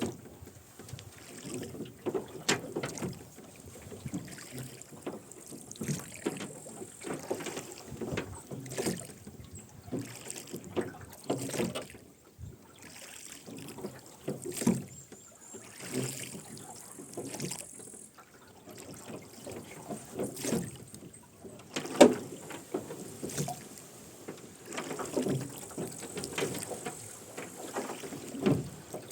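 Wooden rowboat being rowed: the oarlocks creak and knock with each stroke and the oars splash in the water, with one sharp knock about 22 seconds in.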